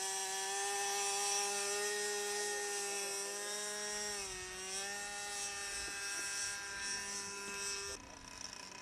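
Model aircraft engine running at high, steady revs with a high-pitched buzz; its pitch dips briefly about four seconds in and recovers, and the sound cuts off suddenly near the end.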